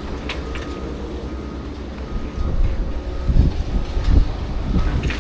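Distant quarry machinery running with a steady low rumble, while a faint high beep repeats a little more than once a second, like a plant vehicle's reversing alarm. Wind buffets the microphone about three seconds in.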